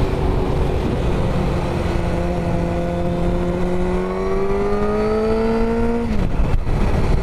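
Sportbike engine running steadily under the rider, then rising in pitch as the bike accelerates from about three seconds in, before dropping away suddenly about six seconds in. Heavy wind rush on the helmet microphone throughout.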